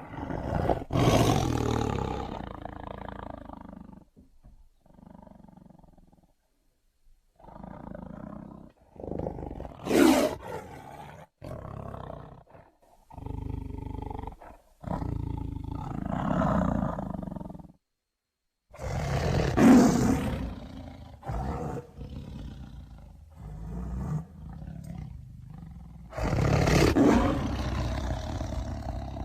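Tiger roaring and growling: a string of roars and rumbling growls of varying length, broken by short silences, with the loudest roars about a second in, around ten and twenty seconds in, and near the end.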